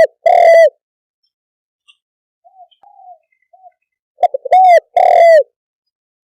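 Spotted dove cooing. A loud phrase of a few short notes ending in a longer coo comes right at the start and again about four seconds in, with a few faint, soft coos between.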